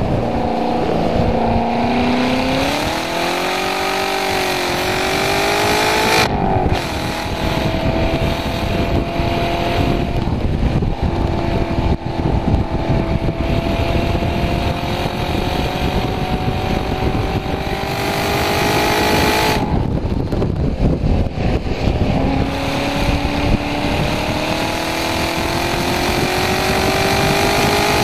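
Chevrolet Corvette C7 Grand Sport's 6.2-litre V8 under hard acceleration on track, heard from inside the cabin. The engine note climbs steadily, drops sharply at about six seconds and again near twenty seconds, then climbs again each time, over a steady rush of wind and tyre noise.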